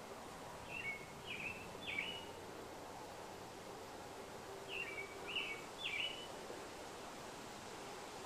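A songbird singing a short phrase of three quick chirped notes, repeated once about four seconds later.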